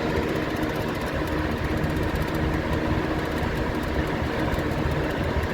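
1980 Lakewood S223 box fan running steadily on high speed: a constant rush of air over a low motor hum, with a light rattle from the grill, which sits on a hard countertop.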